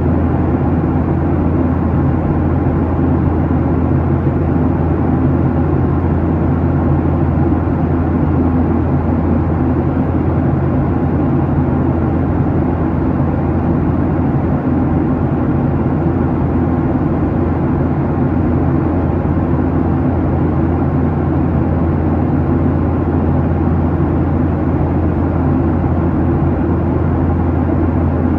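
Steady cabin drone of a Boeing 737-800 in its climb: the CFM56-7B turbofan engines and airflow, heard from inside the cabin as an even, deep hum.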